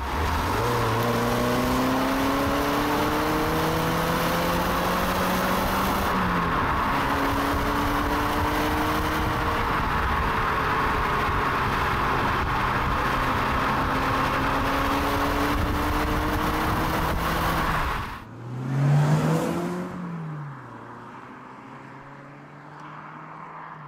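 Mazda3's 2.0-litre four-cylinder e-SkyActiv-X petrol engine pulling hard under acceleration, revs climbing, dropping at a gear change about six seconds in, then climbing again before holding steady. Near the end the sound changes to a short louder swell that rises and falls in pitch, then quieter running.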